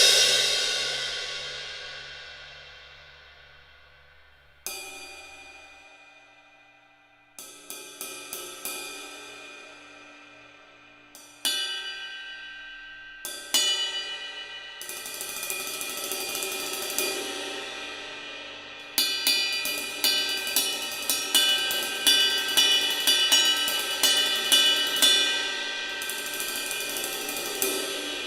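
Arborea Hybrid AP cymbals (B20 bronze) being played alone. One big crash rings out and decays over a few seconds, followed by single strikes and short quick runs. About two-thirds of the way in, a steady fast pattern of strikes begins over a building wash, which swells again near the end.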